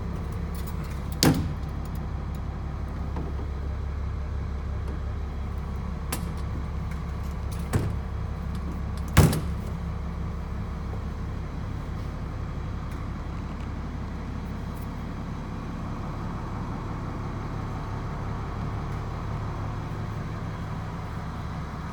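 Steady low hum of a school bus's diesel engine idling, heard from inside the bus, with three sharp knocks from the bus's fittings: about a second in, near eight seconds and the loudest about nine seconds in.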